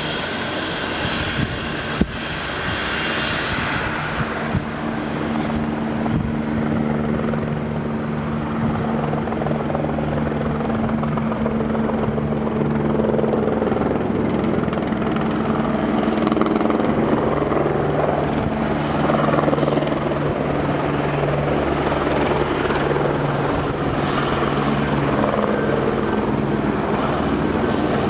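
Helicopter running with a steady drone and whine, growing somewhat louder over the first dozen seconds and then holding level. A single sharp click about two seconds in.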